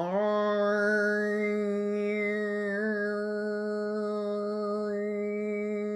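A woman's voice toning one long, low, steady note without words, a slow sound-healing tone held at a single pitch, its vowel colour shifting a couple of times as it is sustained.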